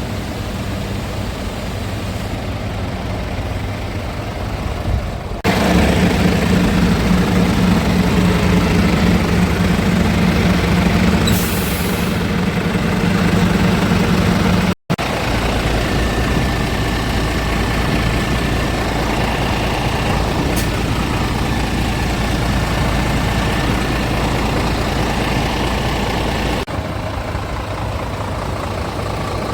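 Scania R450 truck's diesel engine running, heard in several joined clips: a steady idle, then louder with a deeper tone from about five seconds in, with a brief hiss near twelve seconds. After a cut at about fifteen seconds it runs on steadily with a low rumble, dropping back to a quieter idle near the end.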